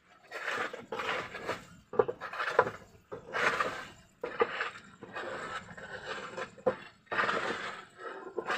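Irregular clattering and clinking of hard, brittle pieces, with sharp cracks here and there.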